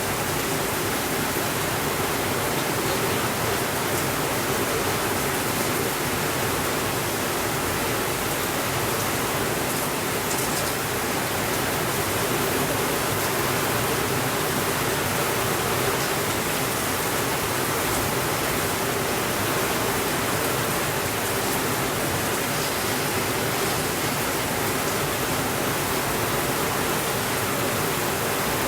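Heavy rain falling steadily as an even rushing hiss, with a few faint clicks around the middle.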